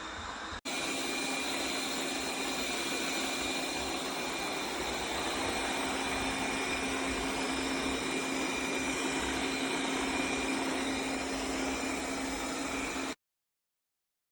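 Robot vacuum cleaner running: a steady whir with a low hum and a thin high whine. It starts abruptly about half a second in and cuts off suddenly near the end.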